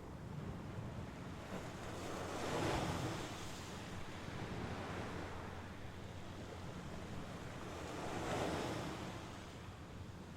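Mediterranean Sea waves washing onto the shore, two of them swelling up and breaking about three and eight seconds in, over a steady rush of water.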